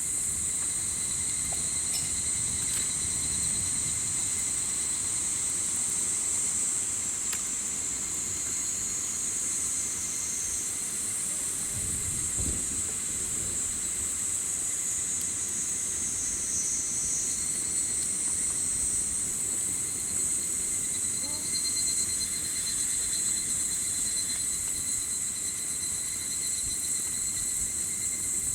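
A steady, high chorus of summer insects chirping, with a constant low rumble beneath and a few faint crackles from a campfire.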